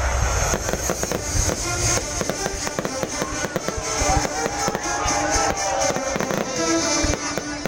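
Fireworks going off in a rapid, dense crackle of pops and bangs, with music playing underneath.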